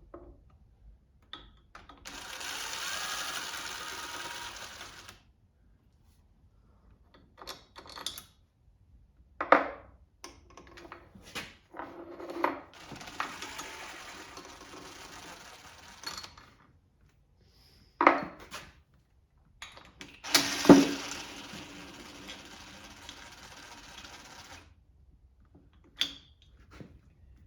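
Hand tools and metal parts being worked during a Kohler small-engine teardown: sharp single metal clinks and knocks, with three spells of steady rasping of a few seconds each between them.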